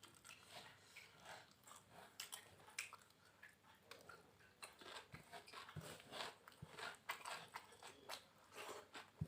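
A person chewing and biting food close to the microphone: faint, irregular wet smacks and crunches from eating fried catfish with raw vegetables.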